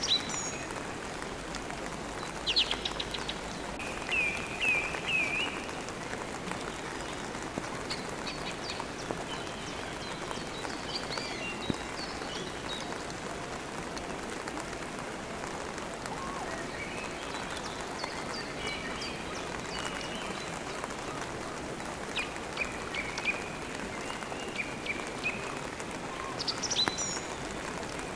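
Steady rain falling, with songbirds chirping at intervals: short high notes in several clusters, including a quick run of repeated notes about four seconds in.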